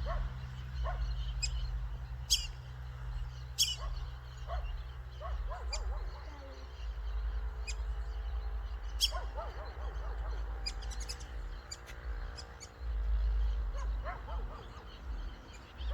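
Birds calling: short, sharp high chirps every second or few, with some lower call notes, over a steady low rumble.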